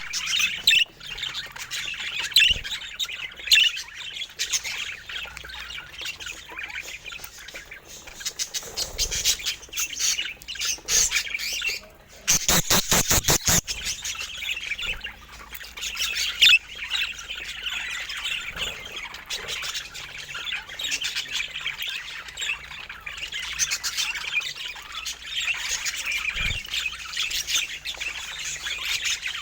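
Budgerigars chattering continuously with high chirps and squawks. About twelve seconds in, a fast rattling run of clicks lasts for about a second and a half.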